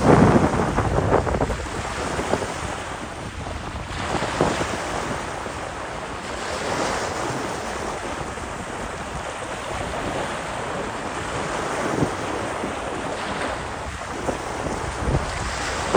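Ocean waves breaking and washing in, with wind buffeting the microphone. A loud wave surges at the start and another just before the end, with smaller swells between.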